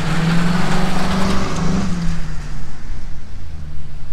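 2004 Mercury Grand Marquis's 4.6-litre V8 revved hard as the rear tyres spin on wet asphalt with a hiss. The revs drop back to idle about two seconds in. It is a wheelspin test of the newly fitted Trac-Lok locking rear differential.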